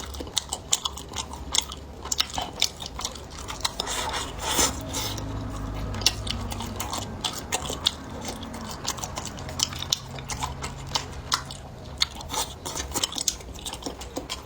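A person biting and chewing food, with dense, rapid clicky mouth sounds, and a low hum from about five seconds in to about eleven seconds.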